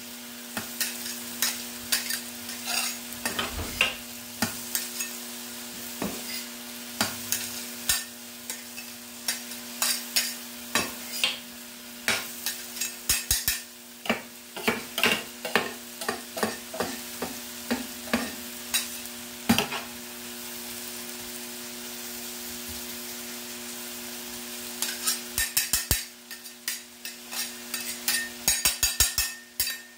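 Food frying and sizzling on a hot cooking surface while a metal utensil stirs and scrapes it, with many quick clicks and scrapes. The stirring stops for a few seconds past the middle, leaving only the sizzle, then picks up again quickly near the end. A steady low hum runs underneath.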